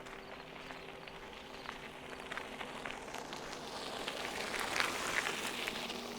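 Footsteps crunching on a gravel trail, a dense patter of small crunches that swells to its loudest about four to five seconds in.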